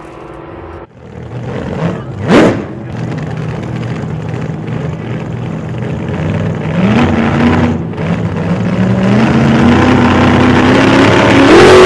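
A vehicle engine running and revving, its pitch climbing in steps and the sound growing louder toward the end, with a short loud whoosh about two seconds in.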